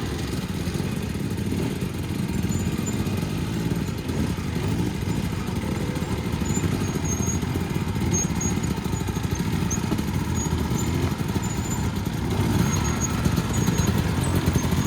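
Dirt bikes running steadily at low revs, close to idle, as they are ridden as slowly as possible in a slow race; the engine sound gets a little louder about twelve and a half seconds in.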